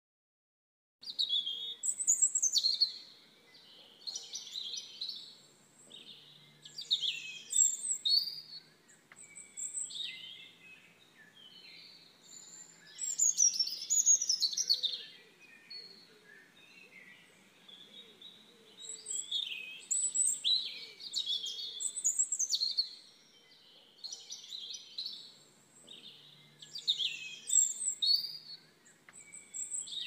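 Songbirds singing: a series of high chirping phrases, each a second or two long, with short gaps between them, starting about a second in.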